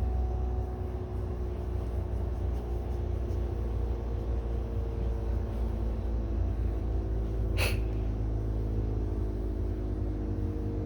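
Steady low mechanical hum and rumble, with one short sharp sound about two-thirds of the way through.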